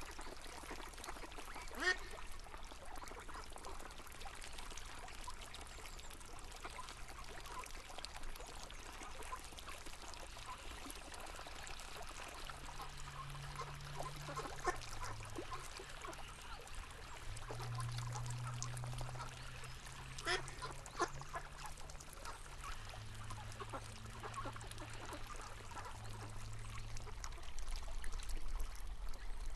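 River water flowing steadily, with ducks quacking a few times. A faint low hum comes and goes in the middle.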